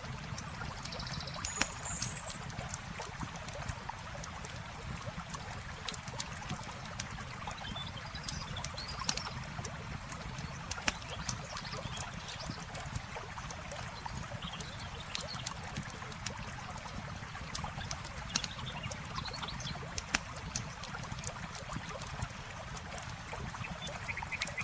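Campfire crackling with frequent sharp pops over a steady rush of flowing water, with a few short, high chirps.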